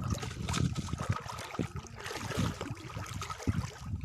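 Water splashing and sloshing in irregular strokes, as when someone wades or moves things through shallow water.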